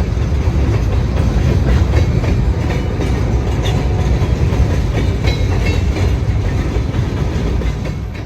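Freight train cars rolling past close by, steel wheels clattering over the rail joints with a steady low rumble.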